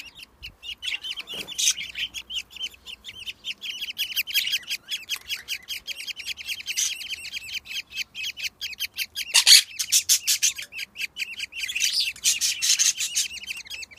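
Week-old budgerigar chicks cheeping in a fast, continuous run of high chirps, with a louder call about nine and a half seconds in.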